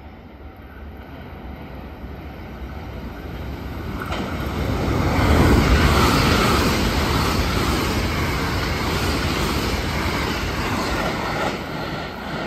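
Limited express electric train passing through a station at speed without stopping. Its rumble builds and is loudest about five seconds in as the cars rush past with rail clatter. It fades in steps near the end as the last car goes by.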